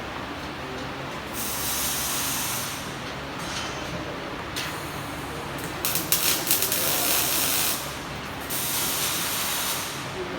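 Electric welding arc struck in four short runs, each a bright hiss. The third and longest run crackles and spits.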